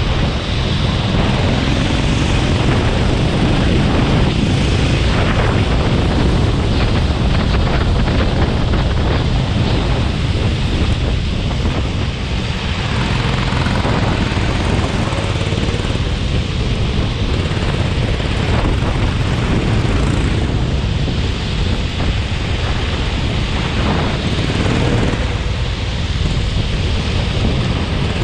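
Go-kart running on a wet track in the rain, its engine buried under heavy wind buffeting on the microphone and a steady hiss.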